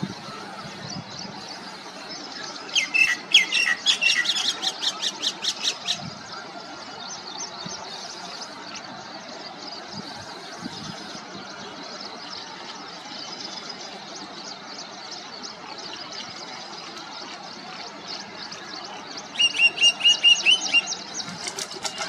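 Birds chirping in two bursts of quick, evenly repeated high calls, one early and one near the end, over a steady outdoor background hiss.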